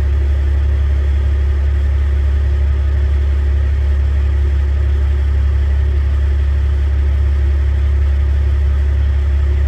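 Engine running steadily at idle, a constant low drone with no change in pitch.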